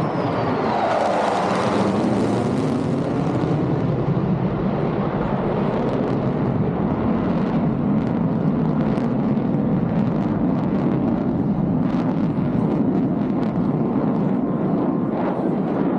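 F-35A Lightning II's Pratt & Whitney F135 jet engine roaring as the fighter flies its high-g combat radius turn. The sound swells to a hiss-laden peak about two seconds in as the jet passes, then settles into a continuous deep rumble.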